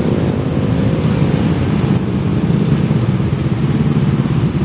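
Steady, loud low rumble of passing vehicles, with no clear engine pitch and no sudden knocks.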